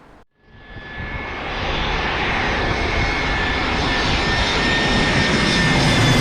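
Airliner engines passing close by: the noise builds quickly about half a second in, then holds loud and steady with a thin high whine over the rumble.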